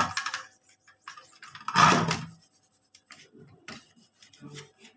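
Rubbing and scraping as dust is cleaned off embroidery machine parts by hand, with a louder rub about two seconds in and light clicks and scrapes after it.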